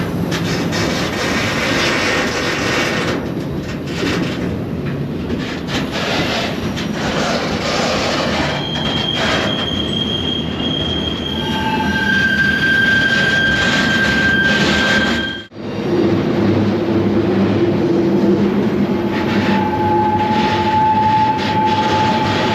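Loaded freight train rolling, heard from on board: a steady rumble and rattle of the cars, with steel wheels squealing in long, steady high tones on a curve from about a third of the way in. The sound cuts out for an instant about two-thirds through.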